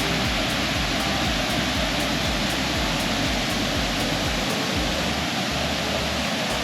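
Steady rushing of a wide river waterfall, Sandstone Falls on the New River, heard up close.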